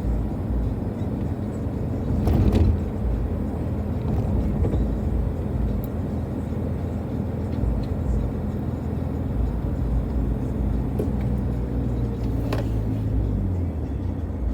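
Car driving, heard from inside the cabin: a steady low rumble of engine and road noise, with a louder rush about two seconds in and a short sharp sound near the end.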